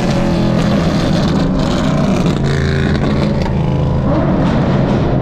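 Straight-piped Lexus V8 exhaust running loudly, its pitch shifting a little as the throttle changes.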